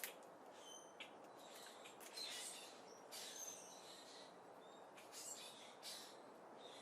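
Small birds giving short, high chirps now and then at a seed feeder, faint over a steady background hiss.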